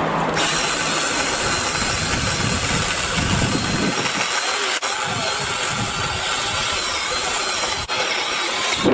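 BLACK+DECKER 18V cordless saw running steadily through a branch, a motor whine with a steady rasp. It starts about half a second in and cuts off just before the end.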